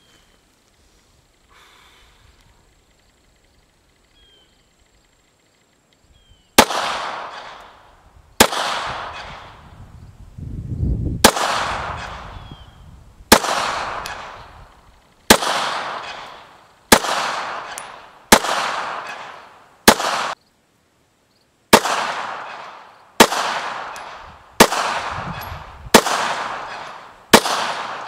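Thirteen unhurried shots from a 9mm Glock 19 pistol firing handloaded 147-grain hollow-point rounds, spaced one to three seconds apart. Each report trails off in a long echo. The shots begin about six and a half seconds in, after a stretch of quiet.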